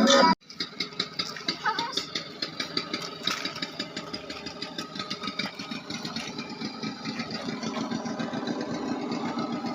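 An engine idling in fast, even chugging pulses. It starts suddenly just after the start, when the music cuts off, and gets slightly louder towards the end.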